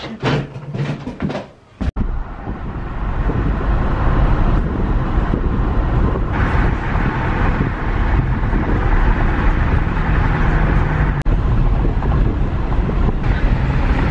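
Road and engine noise inside a moving car's cabin, a steady low rumble and hiss that starts abruptly about two seconds in.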